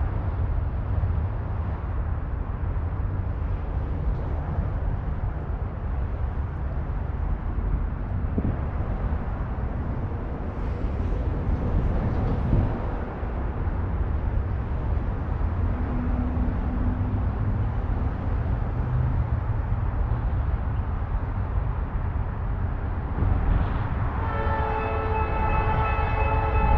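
Low, steady rumble of a pair of GE B40-8W diesel locomotives leading a passenger train. About three seconds before the end, the locomotive's multi-note air horn starts blowing and holds on.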